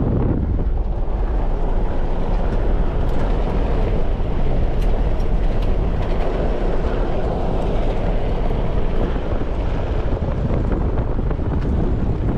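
Steady wind buffeting the microphone, with a constant low rumble underneath.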